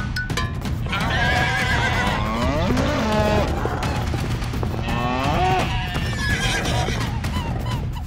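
Two long, wavering farm-animal calls, one about a second in and one about five seconds in, over steady background music.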